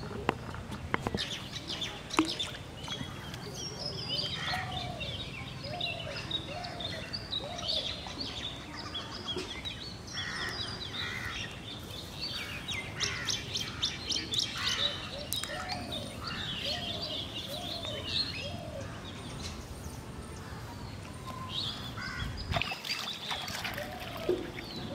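Birds chirping and calling all through, with many overlapping short high notes and a lower call repeating about once a second. A few sharp clicks come in the first two seconds.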